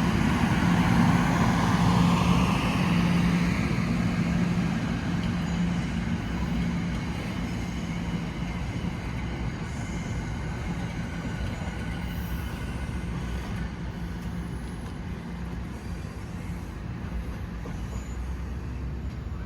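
NJ Transit passenger train running past, a steady hum and rumble that slowly fades as the train moves away.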